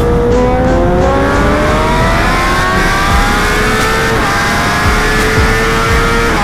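Sport motorcycle engine accelerating hard, its pitch climbing steadily and then dropping sharply with an upshift about four seconds in, climbing again and shifting once more near the end, over heavy wind rumble.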